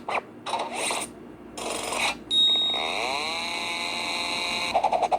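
Cartoon mechanical sound effects. There are short scraping noises first. About two seconds in, a sustained mechanical whir starts, with a steady high tone and a whine that rises and then holds. Near the end it gives way to quick rattling pulses.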